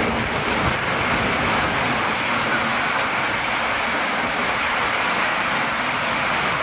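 Steady rushing of water, an even hiss with no separate splashes or knocks.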